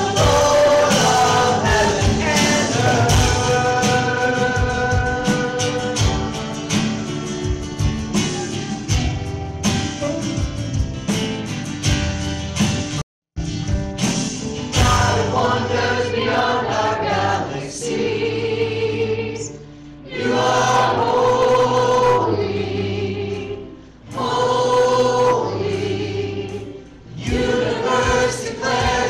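Choral gospel-style music with a choir singing over instruments. The sound drops out completely for a moment about 13 seconds in, then the singing goes on.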